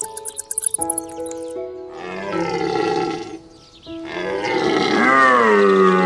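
Two drawn-out calls from a large animal over background music, the second louder and bending down and back up in pitch. Rapid high chirping comes in the first second and a half.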